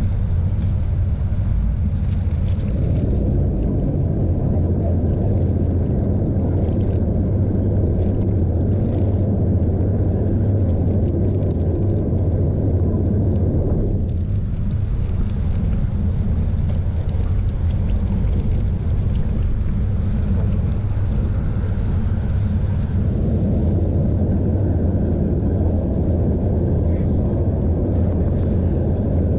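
Steady low rumble of wind and road noise on a chest-mounted action camera during a bicycle ride. The rumble thickens about three seconds in, thins out about halfway through, and thickens again a few seconds before the end.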